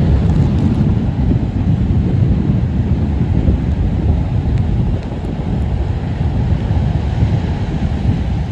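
Strong tropical-storm wind buffeting the camera microphone: a loud, continuous low rumble that starts abruptly.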